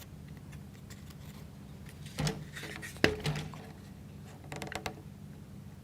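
Light clicks and knocks of wooden plywood model parts being handled and pushed together, a couple of single knocks then a quick cluster of small clicks near the end, over a low steady hum.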